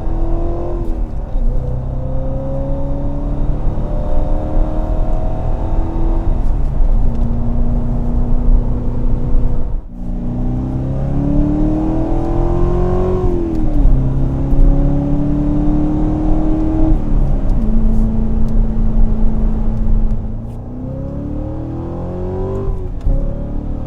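Chevrolet Corvette C7 Stingray's 6.2-litre LT1 V8 running through a Borla cat-back exhaust, accelerating hard. Its pitch climbs through each gear and drops back at every upshift. There is a brief break about ten seconds in, another pull through the gears, and then a spell at a steadier, lower pitch before it climbs again near the end.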